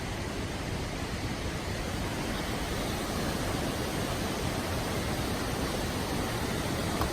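Steady rush of falling water from the Krka River's waterfalls and cascades.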